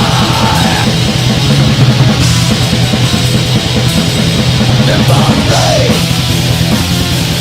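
Heavy metal recording: distorted guitars over a fast, steady drum beat, loud and dense throughout.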